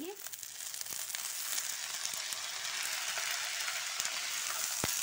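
Green peas tipped into hot oil with frying diced potatoes in a kadhai, setting off a steady sizzle. A few light clicks and one sharper knock near the end come from the metal pan and spatula.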